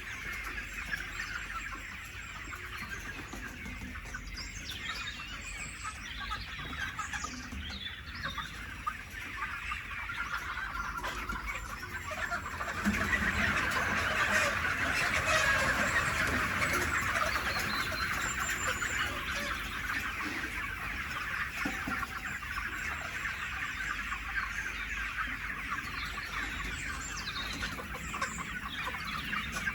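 A large flock of chickens clucking together in a dense, continuous chatter that swells louder for a few seconds about halfway through.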